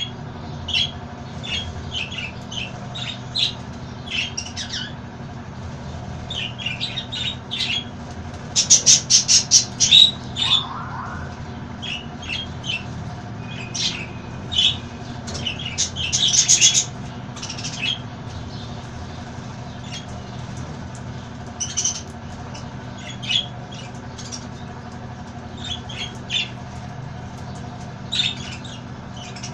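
Parrots squawking and chirping in short, sharp calls all through, with a loud run of rapid squawks about nine seconds in and another loud burst around the middle. A steady low hum runs underneath.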